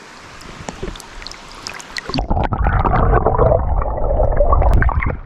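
River water running with small splashes and clicks. About two seconds in, the sound turns muffled, with loud rumbling, bubbling and gurgling as the camera goes underwater in the river.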